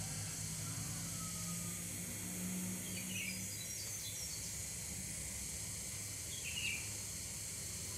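Steady outdoor background noise with a low hum, and a few short, high bird chirps, about three seconds in and again near seven seconds.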